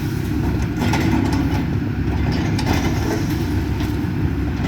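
Excavator's diesel engine running steadily during a house demolition, with scattered cracks and knocks from breaking debris.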